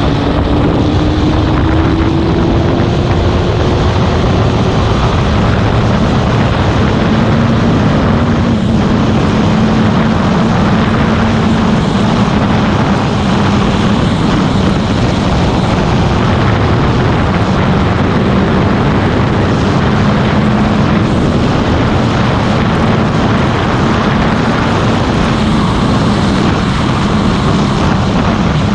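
Motorcycle engine running under way with wind noise on the microphone; the engine note climbs over the first few seconds, then holds steady.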